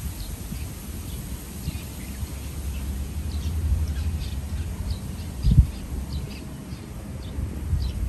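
Small birds chirping: short, high, scattered calls throughout, over a steady low rumble, with one brief low thump about five and a half seconds in.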